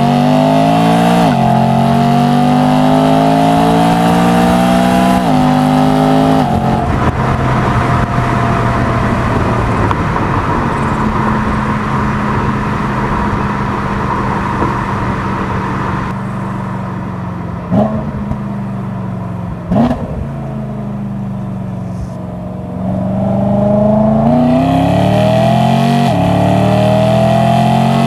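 BMW E92 M3's S65 naturally aspirated V8 with M Performance exhaust, heard from outside under hard acceleration. The revs climb through two upshifts, then the engine settles to a steadier, quieter run with two short sharp bursts. Near the end it climbs hard through the gears again.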